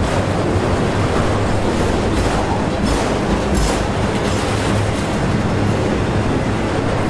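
CSX freight train of autorack cars rolling past close by: steady loud rolling noise of steel wheels on rail, with a few faint clicks.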